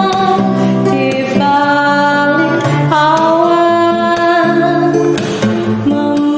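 Song with acoustic guitar accompaniment, a singer holding long sustained notes that change pitch every second or two.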